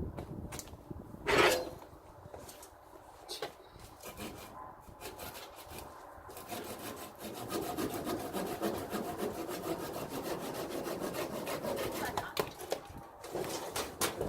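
Hand saw cutting through firewood, its rasping strokes becoming steady and continuous about halfway through, after some scattered knocks of wood being handled.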